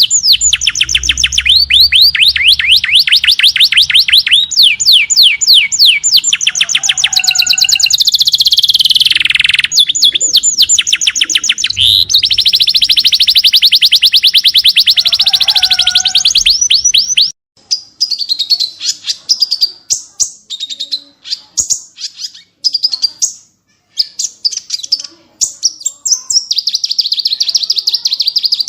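Small songbirds singing rapid-fire trills: fast runs of sharp repeated notes, some sweeping up and down, with hardly a gap between them. About two-thirds of the way through, the recording switches abruptly to sparser, separate chirps and short phrases.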